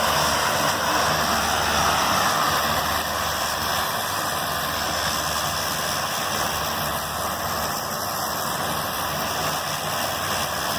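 A Cessna's propeller engine running steadily on the ground as the plane taxis or idles, a constant rushing drone with a low hum under it, easing slightly about three seconds in.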